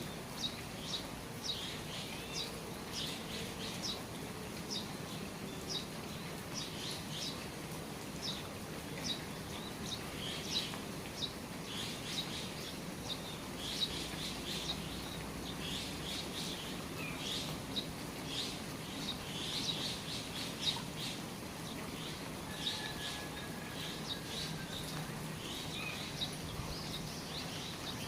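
Small birds chirping in many short, quick notes over the steady hiss of rain falling around the eaves.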